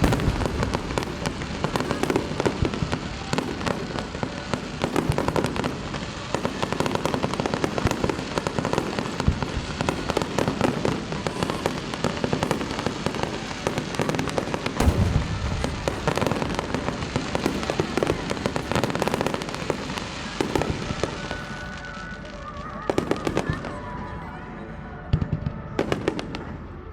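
Aerial fireworks in a dense barrage: rapid overlapping bursts and crackling, with heavier booms about halfway through. The barrage thins out over the last few seconds, leaving a few separate bangs.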